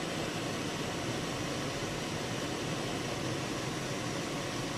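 Steady road noise inside a front-wheel-drive car's cabin as it climbs an unplowed, snow-covered highway on snow tires: an even hiss of tyres on snow over the engine's low hum.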